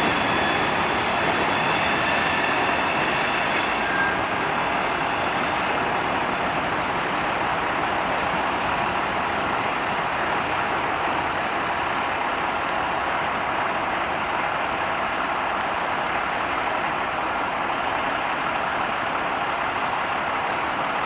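Freight train of flatcars rolling away along the track, a steady rolling noise, with thin high wheel squeal over the first few seconds that fades out.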